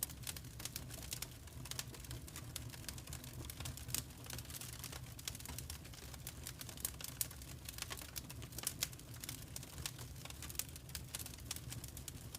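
Wood fire crackling in a fireplace: irregular sharp pops and snaps, several a second and some louder than others, over a steady low rumble.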